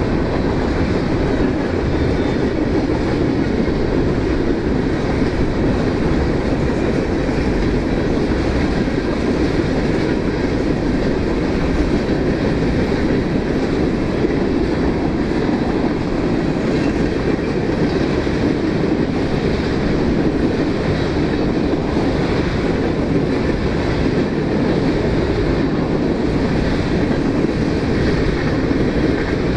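CSX mixed freight train of covered hoppers, boxcars and bulkhead flatcars rolling past, with a steady rumble of wheels on rail.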